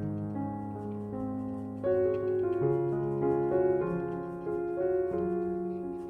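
Background piano music: slow, sustained chords with a fresh set of notes struck about two seconds in.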